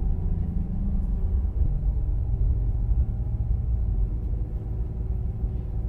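Vehicle engine and road rumble heard from inside the cabin while driving slowly. The engine note steps down slightly about one and a half seconds in.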